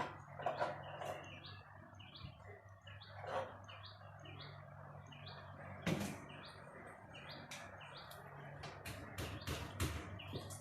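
Small bird chirping repeatedly, short notes coming about once or twice a second, with a few sharp knocks and a steady low hum underneath.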